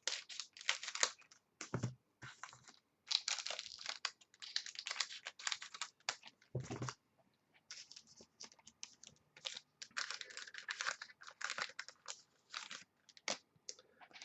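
Trading-card packs and cards being handled on a table: irregular rustling, crinkling and sliding, with two soft thuds about two and seven seconds in.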